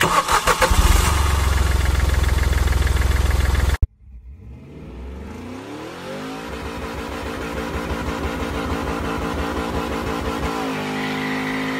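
A vehicle engine pulling away, its pitch rising for about two seconds and then holding steady as it cruises, with a change in pitch near the end. Before it, a loud, dense stretch of sound with regular pulses cuts off suddenly about four seconds in.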